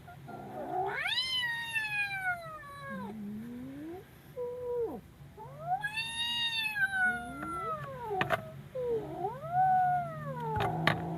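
Kitten yowling in fear: two long cries that rise and then fall, with several shorter calls between and after them. A few sharp clicks come near the end.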